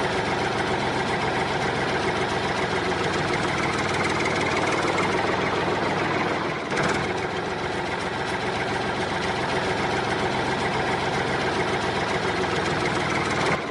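JCB backhoe digger's engine running steadily while digging, with a brief dip about halfway through.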